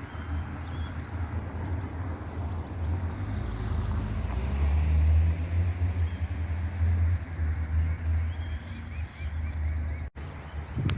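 Ducklings peeping in quick, high, evenly repeated chirps through the second half, over a steady low rumble that swells and is loudest through the middle.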